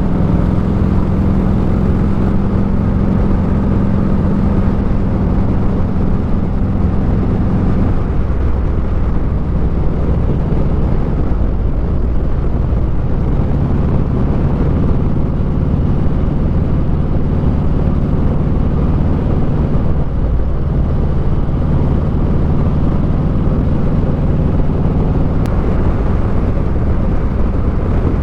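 Motorcycle engine running under way, a steady low note over rushing noise; the engine note drops to a lower pitch about eight seconds in and holds there.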